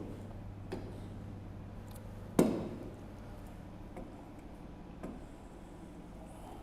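A steady low hum with a few scattered soft clicks, the loudest about two and a half seconds in.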